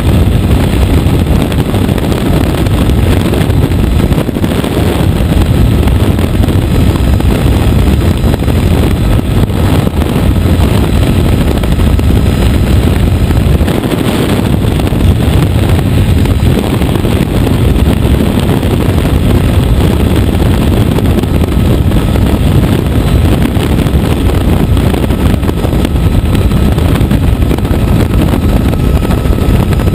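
Helicopter in flight, heard from on board: loud, steady rotor and engine noise that holds even throughout.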